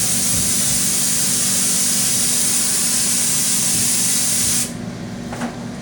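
Hydrodipping film activator being sprayed onto the printed film floating on the dip tank's water: one continuous hiss of about four and a half seconds that cuts off suddenly. The spray activates the film so its ink turns liquid before the part is dipped.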